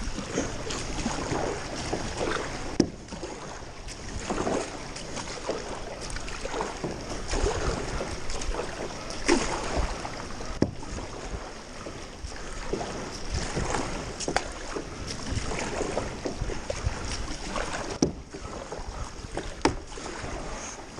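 Paddle strokes splashing through floodwater as a small boat is paddled along, in irregular surges, with a few sharp knocks here and there.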